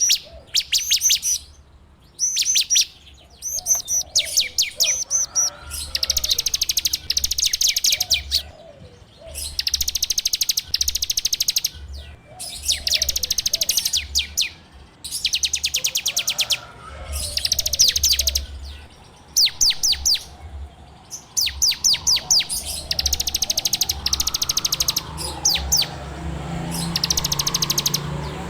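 A ciblek (prinia) singing in repeated bursts of rapid, buzzing trills, each a second or two long with short pauses between. A low hum runs underneath.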